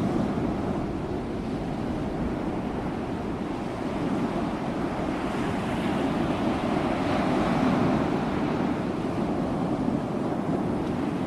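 Sea waves washing onto the shore in a continuous rush of surf, the wash swelling a little past halfway and then easing off.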